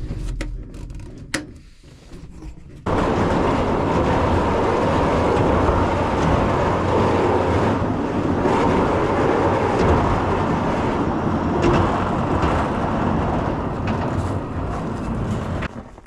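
Light plane's engine and wind noise in flight, a steady loud rumble that cuts in suddenly about three seconds in and stops just before the end. Before it, a quieter engine sound fades down, with a single click.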